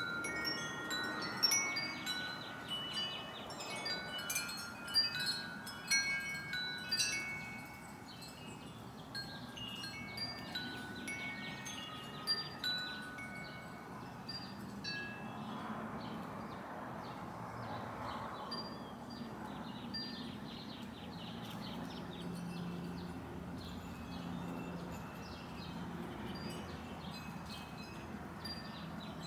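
Wind chimes ringing in a breeze, many tones at different pitches, busiest in the first several seconds and then fewer, quieter strikes.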